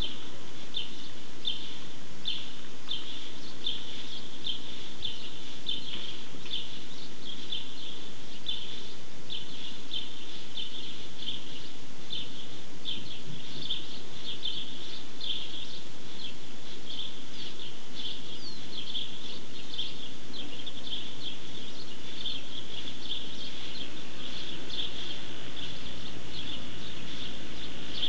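Small birds chirping over and over, one or two short high chirps a second, over a steady hiss.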